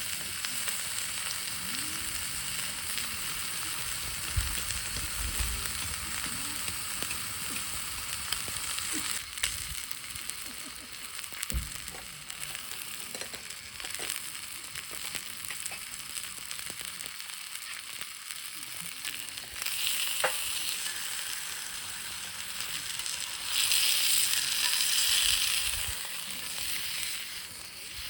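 Steak sizzling in a cast-iron skillet over a campfire: a steady frying hiss with scattered small crackles, swelling louder for a couple of seconds near the end.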